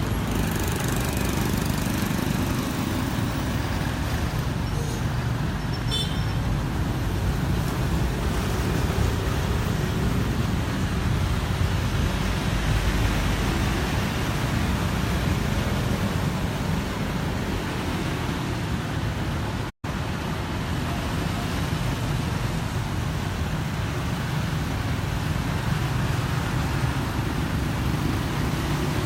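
Steady street traffic noise of cars passing on a road.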